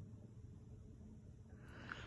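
Faint, steady low hum of a Monte Carlo cast ceiling fan's motor running on medium speed.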